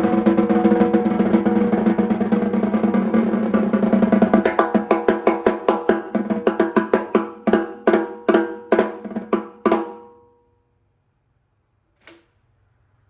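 Snare drum played in a fast roll that slows into separate strokes, each leaving a ringing tone, and stops about ten seconds in; one light tap near the end. Picked up through a phone's built-in microphone with no added mic or processing.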